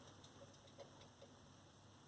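Near quiet with a few faint, irregular small clicks and drips from a parakeet bathing in a shallow water dish.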